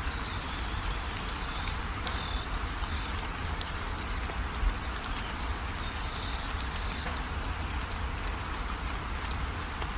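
Steady rain falling, with many small drop ticks and one sharper, louder drop hit about halfway through. A high, thin chirping comes and goes over the rain.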